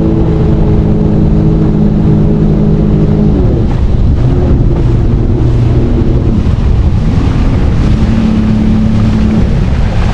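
Jet ski engine running hard at high throttle. About three seconds in its pitch drops as the throttle eases, then wavers up and down before holding steady again. Wind and water rumble on the microphone throughout.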